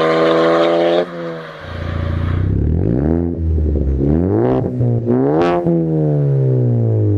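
Ford Focus ST with an aftermarket exhaust being revved. The engine is held at high revs, the throttle is let off about a second in, and then come several throttle blips with the pitch rising and falling. The highest blip comes about two-thirds of the way through, and the revs fall away slowly after it.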